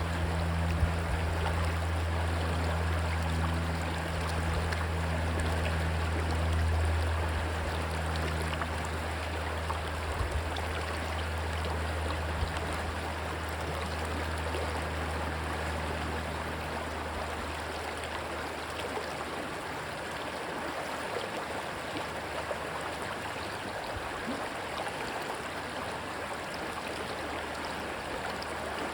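Rushing stream water, a steady even rush. A low engine drone underneath fades away a little over halfway through.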